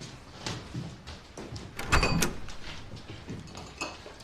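A few soft knocks and clicks, with a louder clunk that rings briefly about two seconds in and a small ringing tick near the end.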